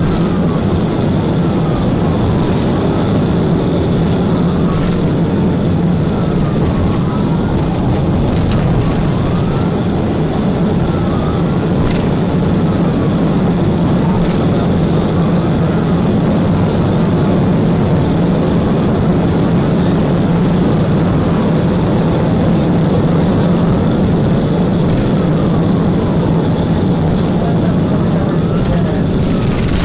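Police siren wailing, its pitch sweeping up and down every second or two, over loud steady engine and road noise heard from a patrol car's dashcam.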